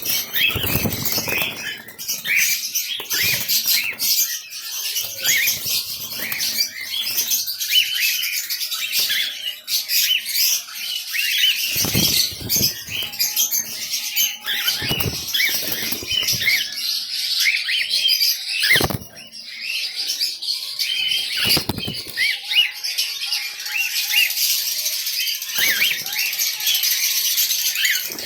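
Many small birds chirping and chattering over one another without a break, with wings fluttering. A few short low thumps fall among the chirps.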